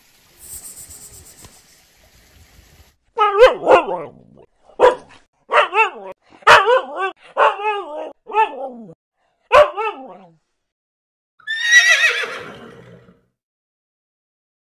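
A husky barking and yipping: a quick series of about ten short calls, each falling in pitch. Near the end, a zebra gives one longer, harsher braying bark.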